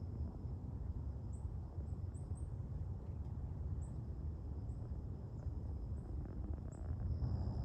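Night insects outdoors: a steady, thin, high drone with short, high chirps scattered irregularly through it, over a low, steady rumble.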